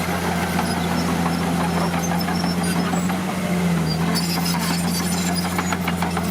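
Crawler bulldozer's diesel engine running steadily at an even pitch, with light clanking and rattling that grows busier from about four seconds in.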